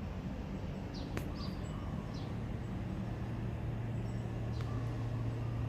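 Quiet outdoor background: a low steady hum, with a few brief faint bird chirps.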